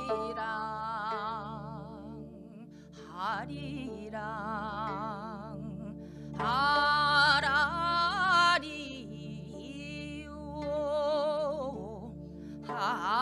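Korean folk singing: a solo voice in four long phrases of held notes with strong, fast vibrato over a steady sustained accompaniment.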